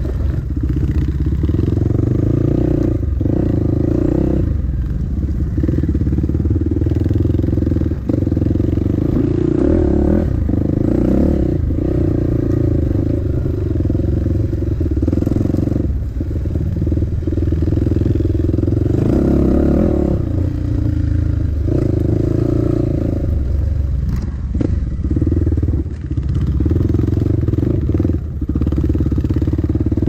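Dirt bike engine running hard on a trail ride, held at fairly steady revs with brief drops every few seconds as the throttle is rolled off and back on.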